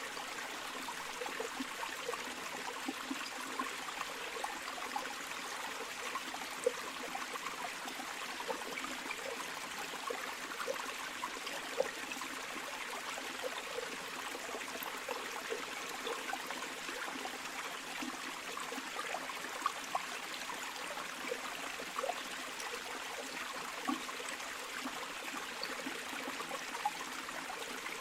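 A river or stream flowing steadily over stones: a continuous rushing hiss with small gurgles and plops.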